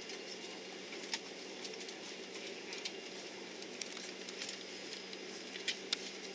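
Steady cabin hum inside an Airbus A330-300 airliner, with scattered light clicks and rattles.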